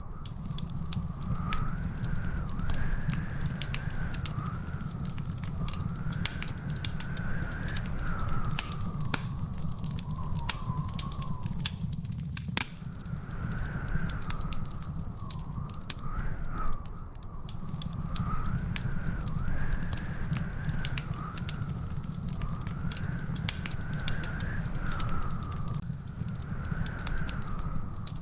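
Wood fire crackling, with frequent sharp pops over a steady low rumble. A thin, wavering whistle rises and falls behind it throughout, dropping out for a couple of seconds midway.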